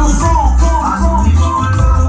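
Loud recorded music played over a radiola sound system, with a heavy, pulsing bass and a melody line above it.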